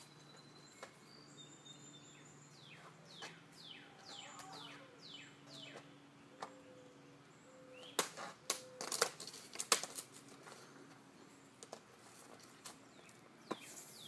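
A songbird singing a quick series of descending whistled notes. A little past halfway comes a cluster of sharp knocks and clatters, the loudest sounds.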